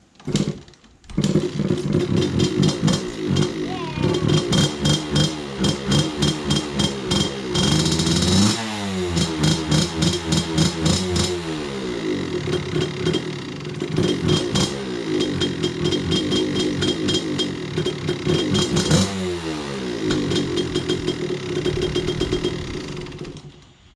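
KTM 65cc two-stroke dirt bike engine running and being revved in quick throttle blips. The revs fall away about eight and a half seconds in and again near nineteen seconds, with steadier running between. It dies down just before the end.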